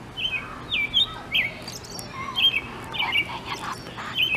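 Birds chirping: a run of short high chirps, about two a second, several with quick sliding notes.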